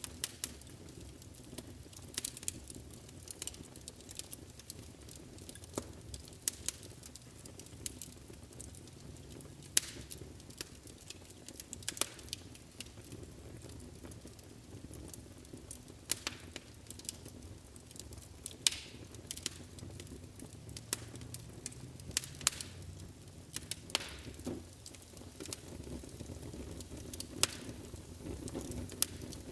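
Wood fire burning in a fireplace: a steady low rush of flames with sharp irregular crackles and pops, a few of them standing out louder.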